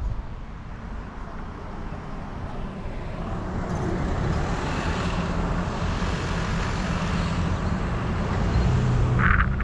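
Road traffic noise over a steady low rumble, with a passing vehicle's noise building over several seconds. A brief high squeak comes near the end.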